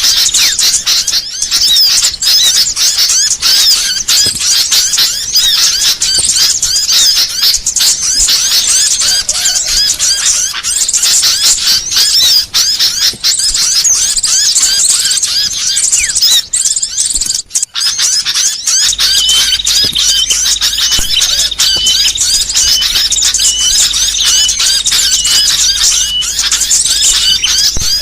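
Dense chorus of many small songbirds chirping and twittering over one another, a masteran recording of small-bird calls for training and luring songbirds. About two-thirds of the way through it briefly drops out, then a short repeated note joins, about two a second.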